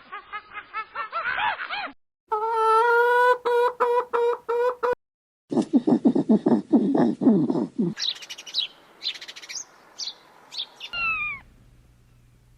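Bird chirping and other animal calls in quick succession, split by brief silences. Among them are a trilling pitched call, a run of low rapid calls and high chirps, with two falling calls near the end.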